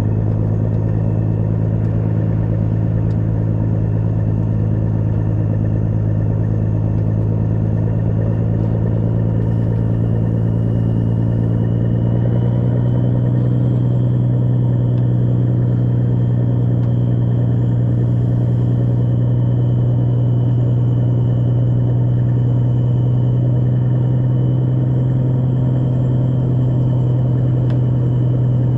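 Large truck engine running steadily with a faint high whine over it, its pitch stepping up slightly about twelve seconds in.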